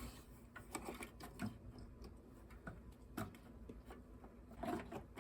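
Faint, scattered clicks and light knocks of small parts being handled while the rubber fuel line is pushed onto the Tecumseh carburetor, a few separate taps a second or more apart.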